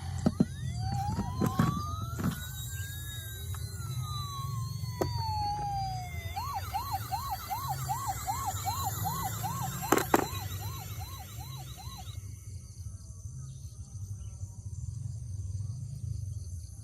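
Electronic siren of a toy emergency vehicle: a slow wail that rises and falls, then switches to a fast warble of about two to three cycles a second that stops about twelve seconds in. A steady low hum lies underneath, with a few sharp clicks.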